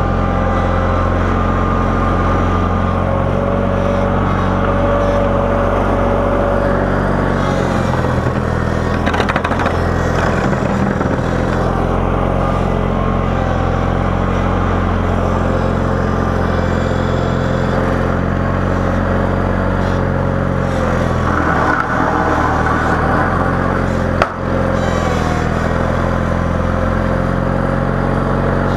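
Garden tractor's engine running steadily while plowing snow. There is a single sharp knock near the end.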